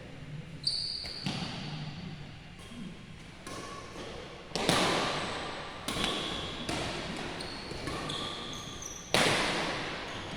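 A badminton rally in a large echoing hall: shuttlecock struck by rackets about once a second, each sharp hit ringing on, with the loudest hits about halfway through and near the end. Short high squeaks come between the hits.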